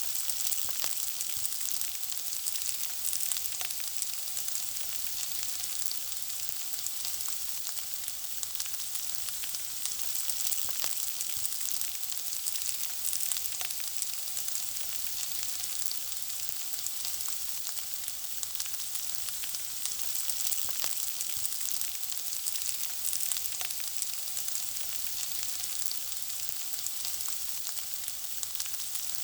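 Food frying in hot oil: a steady sizzle with a dense crackle of tiny pops.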